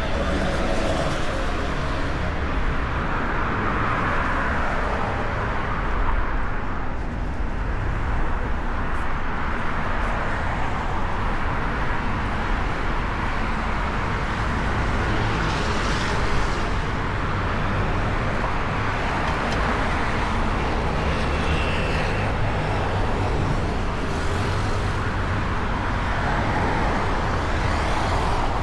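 City street traffic: a steady stream of cars passing, with low engine rumble and tyre noise swelling and fading as each one goes by.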